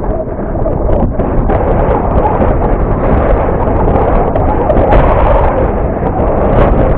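Strong wind buffeting the microphone: a loud, continuous rumble.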